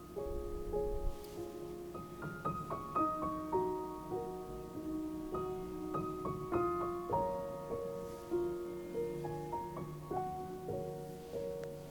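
Soft background piano music: a slow, gentle melody of single notes and light chords.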